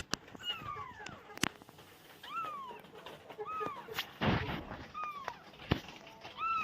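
A small cat, likely a kitten, meowing repeatedly in short, high calls that fall in pitch, about six times. There are a few sharp knocks and a brief rustle about four seconds in.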